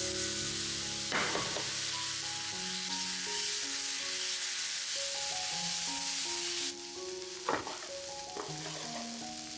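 Food sizzling in a hot frying pan, with a couple of short stirring scrapes; the sizzle drops off abruptly about two-thirds of the way through. Soft background music plays underneath.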